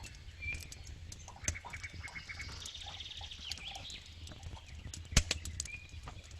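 Campfire burning: wood crackling and popping over a low steady rumble of flames, with one sharp, loud pop about five seconds in. Faint short high chirps and squeaks run through the crackle.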